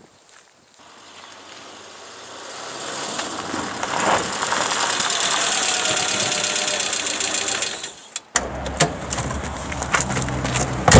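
A Peugeot 205's engine running: the sound builds over the first few seconds, holds steady with a fast even rhythm, and cuts off suddenly about eight seconds in. After that, a lower engine hum with a few clicks, and a sharp bang near the end.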